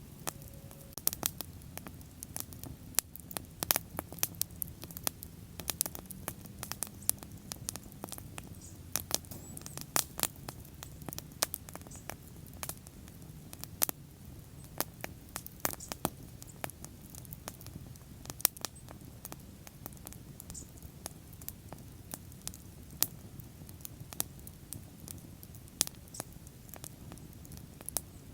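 Wood bonfire crackling: irregular sharp pops and snaps, several a second, over the low steady rush of the flames.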